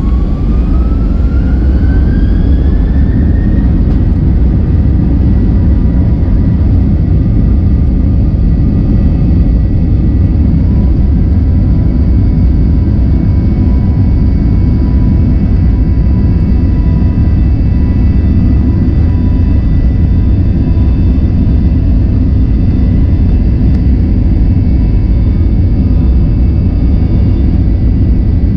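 Boeing 737-800's CFM56 jet engines heard from inside the cabin, spooling up with a whine that rises in pitch over the first few seconds, then holding a loud steady roar with high steady tones, as at takeoff thrust during the takeoff roll and climb.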